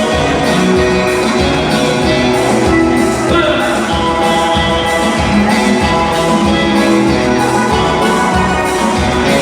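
Dance music from a band, with held instrumental notes over a steady beat of about two beats a second.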